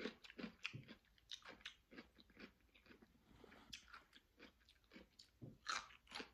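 Raw cucumber being bitten and chewed: a run of quick, irregular crisp crunches, several a second, with a louder crunch near the end.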